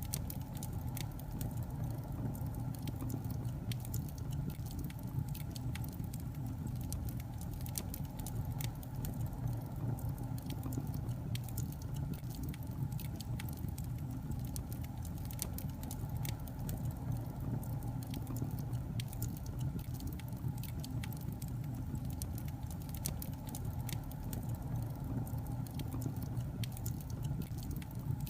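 Burning logs in a fireplace crackling, with frequent small irregular pops and snaps over a low, steady rumble of the fire.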